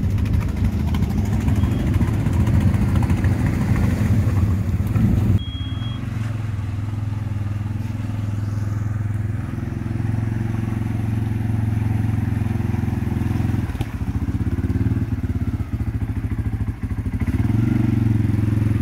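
ATV engines running at low, fairly steady revs. The sound changes abruptly about five seconds in and again about fourteen seconds in.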